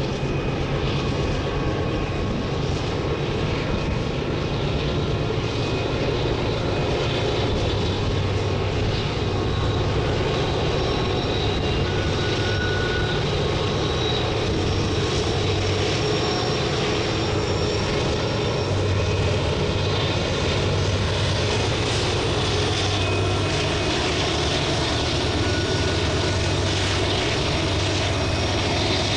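A steady engine drone, even and unbroken, with a strong low hum beneath a wide spread of noise.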